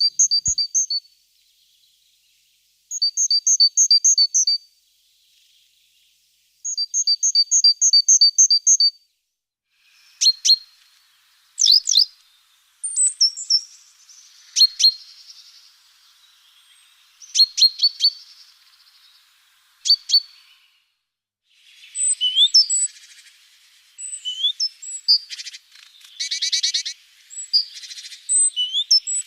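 Small birds chirping at close range: three bursts of rapid, evenly repeated high notes, followed by sharp single call notes and, near the end, denser overlapping calls.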